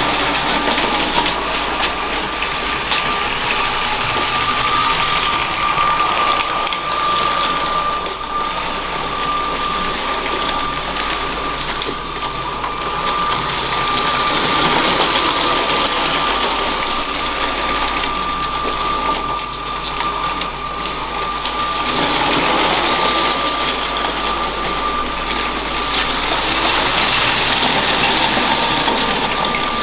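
Electric motor of a LEGO train whirring with a steady high-pitched gear whine, wheels rattling over plastic track; the sound swells and fades several times as the train runs nearer and farther.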